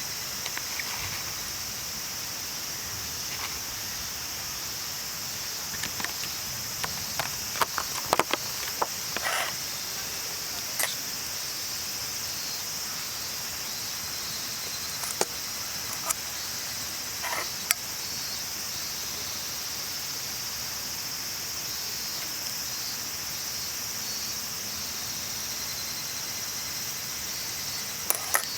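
A steady, high insect chorus of summer insects. Scattered short sharp clicks and taps come through it, clustered about six to ten seconds in and again around fifteen to eighteen seconds.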